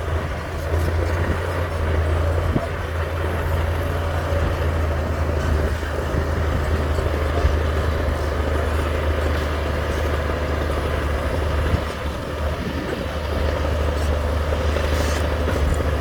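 Heavy diesel earthmoving machinery running steadily, a deep continuous engine drone.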